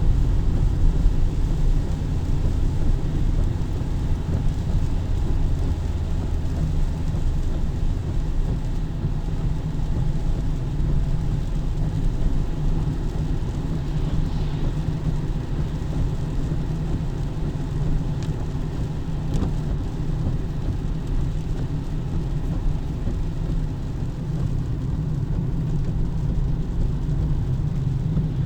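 Steady rain with a continuous deep rumble of road traffic.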